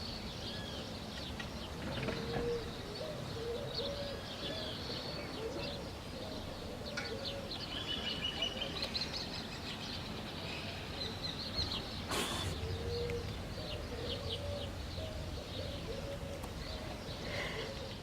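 Barn swallows twittering with quick high chirps and trills, over a dove or pigeon cooing in a repeated low phrase. A short burst of noise comes about twelve seconds in.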